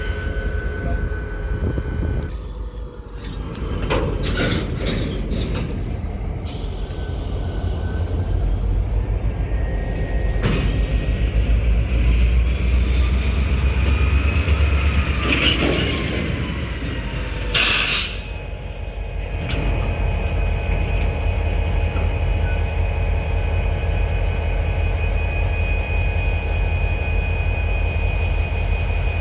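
Train cars rolling by with a steady low rumble, squealing wheels and several sharp clanks, and a short loud burst of noise about 17 seconds in.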